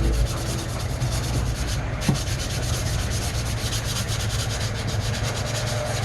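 Sanding of body-filler putty on a car's engine-bay panels: a steady, rapid scratching rub.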